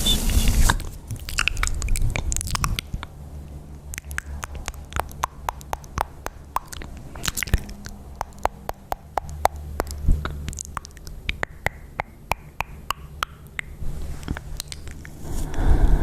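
ASMR mouth sounds close to the microphone: irregular wet clicks and smacks of lips and tongue, a few every second, with a louder rustle at the start and another near the end.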